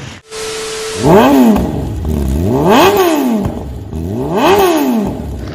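Superbike engine revved three times, the pitch rising and dropping back each time, after a brief steady tone.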